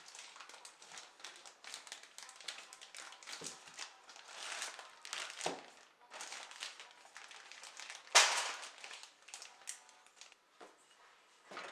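Crinkling and rustling handling sounds in short, irregular bursts, the loudest about eight seconds in.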